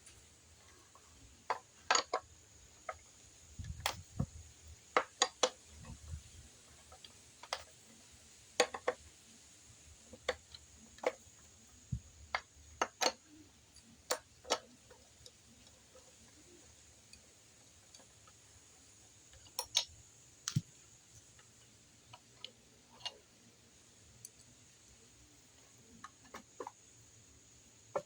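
Irregular sharp metal clicks and taps of tools working on a planer while its blade is being taken off, some close together in pairs, others seconds apart.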